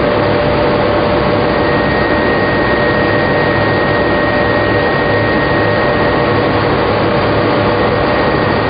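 Tobacco lamina flash-dryer line running steadily: a loud, constant machine noise with several steady tones, a higher tone joining about a second and a half in.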